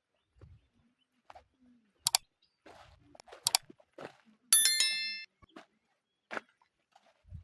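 A few sharp knocks, then a metal object struck once and ringing briefly with several high tones that fade away.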